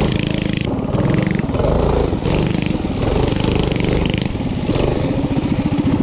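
Minibike engine running, the revs rising and falling, then settling into a slower, even low putter about a second before the end.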